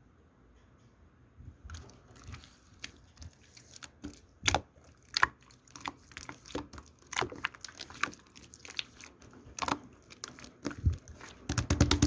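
Irregular sharp clicks and crunchy taps, sparse at first and busier from about four seconds in, ending in a quick run of clicks.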